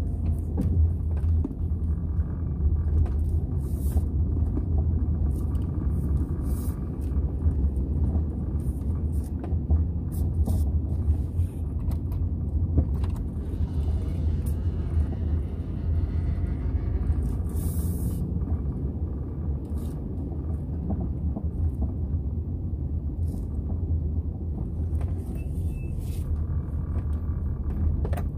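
Strong dust-storm wind buffeting the microphone as a steady, deep rumble, with scattered small clicks.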